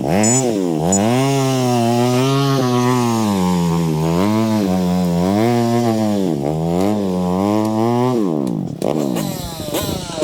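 Honda CRF150L dirt bike's single-cylinder four-stroke engine revving up and down over and over as it is ridden on the trail, its pitch rising and falling about every second. The engine note drops away about eight seconds in.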